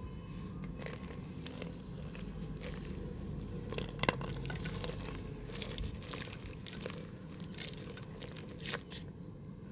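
Mud crumbling in a pot: irregular crunching and crackling as clumps break apart, with the sharpest crack about four seconds in.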